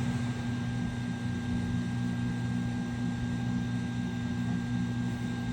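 Steady mechanical hum with a thin, constant high whine running through it.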